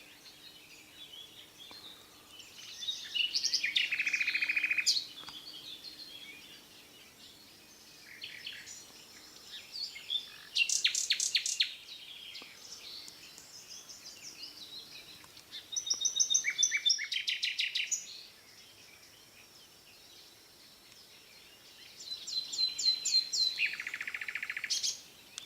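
A songbird singing in four separate bursts of rapid, high-pitched trills and chirps, each a couple of seconds long, with quieter pauses between them.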